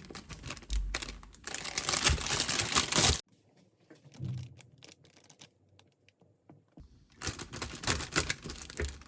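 Crinkling and light clicking of packaging being handled, with a few near-silent seconds in the middle.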